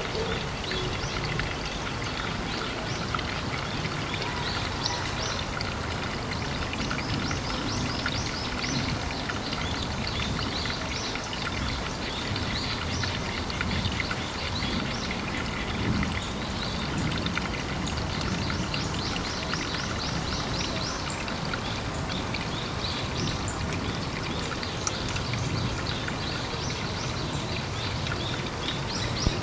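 Pond ambience: steady running, trickling water with series of quickly repeated high chirps from birds.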